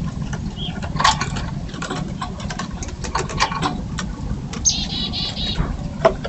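Birds at a feeder: scattered sharp clicks, taps and wing flutters, with one harsh, buzzy bird call about three quarters of the way through. A low steady rumble runs underneath.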